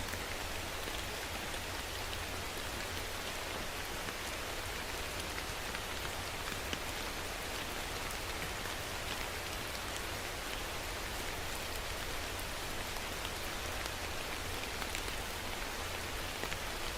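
Steady rain falling, with faint scattered drop ticks against an even hiss.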